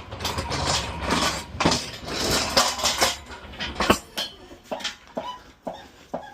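Metal clattering and clanking as a pallet jack and its load are worked on a box truck's lift gate, turning about halfway through into a regular clicking about twice a second.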